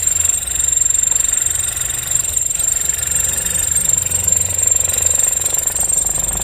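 Car engine running steadily with a rattling, knocking clatter.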